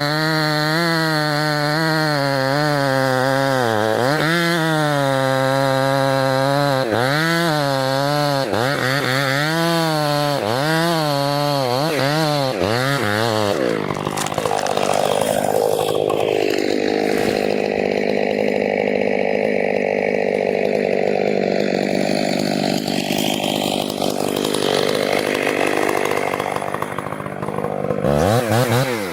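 Petrol chainsaw running at high revs and cutting into wood, its engine pitch sagging and recovering again and again as the chain bites. About halfway through, the clear engine note gives way to a rougher, noisier sawing sound, and the engine revs up again near the end.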